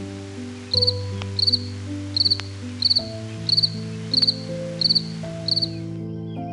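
Cricket chirping: short high-pitched chirps of three or four quick pulses each, repeating about every two-thirds of a second and stopping near the end, over background music of slow sustained notes.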